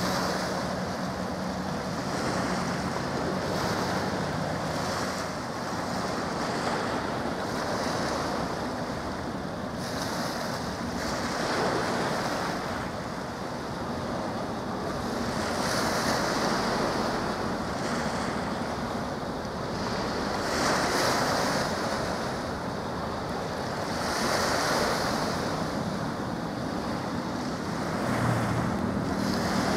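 Wind buffeting the microphone over the wash of sea water, swelling and easing every few seconds, with a faint low engine hum near the start and again near the end.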